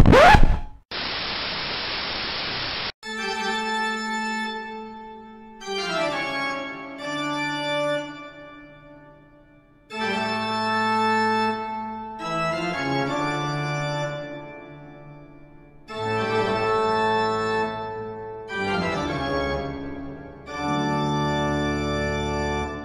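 The brass music breaks off with a brief rising glide, followed by about two seconds of steady hiss like static. From about three seconds in, an organ plays slow, sustained chords in phrases separated by short gaps.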